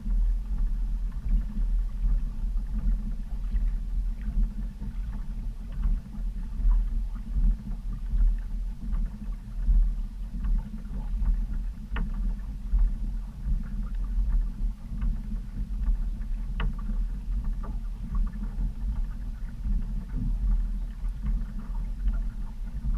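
Wind buffeting the microphone on a kayak: a low, gusting rumble that rises and falls unevenly, with a few faint ticks.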